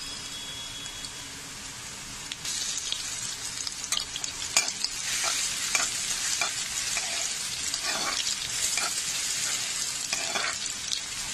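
Chopped onion and grated garlic sizzling in hot oil in a kadhai while a metal spoon stirs them, scraping against the pan. The sizzle gets louder a little over two seconds in, and scraping clicks come repeatedly through the middle and later part.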